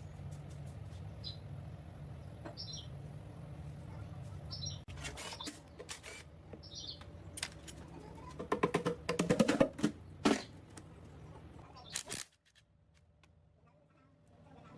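A steady low hum with a few short high chirps, then a quick run of sharp knocks and clicks. The sound cuts off suddenly to near silence near the end.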